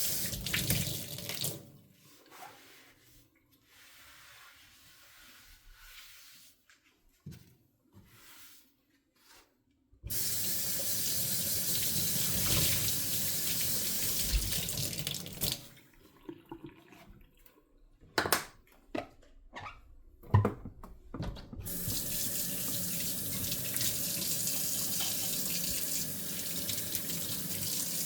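Kitchen sink tap running in spells while dishes are hand-washed and rinsed: a short burst of water at the start, a quiet stretch of handling, then the tap running steadily for about five seconds, a few sharp knocks of dishes against the sink, and the tap running again until the end.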